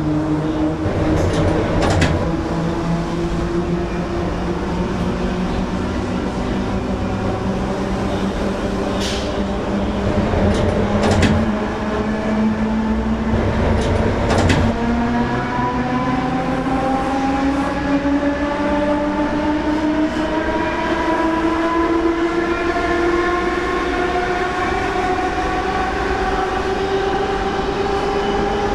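Electric suburban train's traction motors whining as it accelerates, the pitch climbing slowly and steadily. A few sharp knocks and clicks sound over it.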